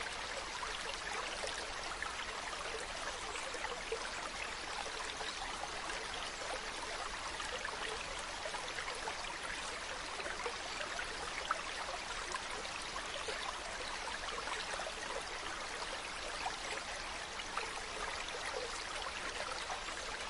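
Mountain stream running steadily, an even rush of water with fine trickling detail and no breaks.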